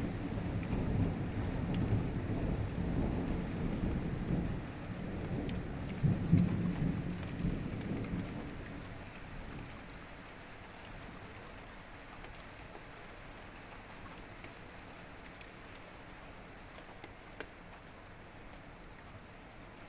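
Thunder rumbling low over steady rain, swelling to its loudest about six seconds in and dying away after about nine seconds. Then only steady rain remains, with a few separate drops ticking.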